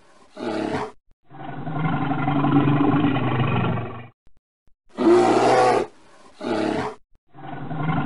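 A bear roaring and growling in several bouts: a short growl, a long roar of about three seconds, two more short growls, then another roar starting near the end.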